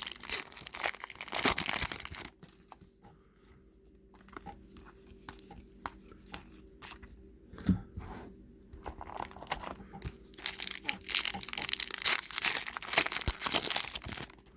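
Trading card pack wrappers being torn open and crinkled by hand. The rustling is loud in the first two seconds, drops to faint handling noises with small clicks, then picks up again for the last few seconds.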